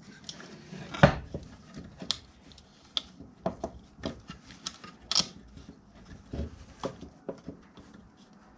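Hard objects being handled and fitted together by hand at a workbench: irregular clicks, taps and knocks, with the loudest knock about a second in and another sharp click a little after five seconds.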